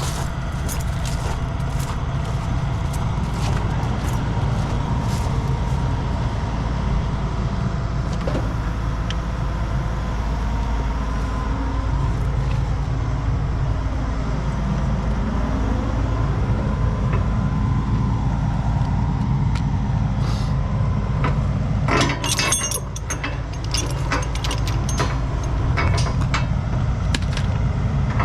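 Heavy truck diesel engine running steadily, its pitch dipping and rising once near the middle. From about three-quarters of the way through, tow chains and hooks rattle and clink as they are unhooked.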